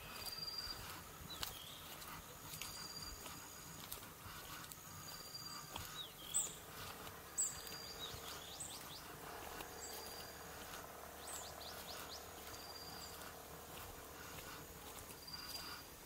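Wild birds calling in a quiet outdoor setting: a short high whistle repeats every two seconds or so. A few sharp chirps come about six and seven seconds in and are the loudest sounds.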